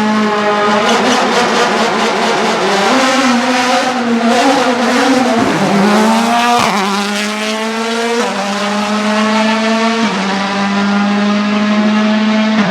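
Ford Fiesta WRC Plus rally car's turbocharged 1.6-litre four-cylinder engine running hard at high revs. The revs hold steady, drop sharply twice around the middle, then climb again under acceleration. A rapid crackle runs over the first few seconds.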